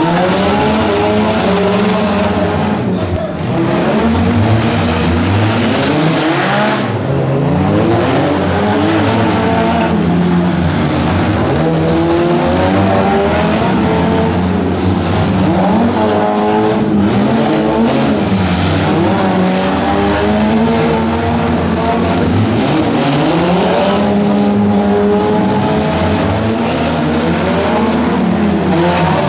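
Several derby cars racing together, their engines revving up and falling back over one another as they accelerate and brake through the turns.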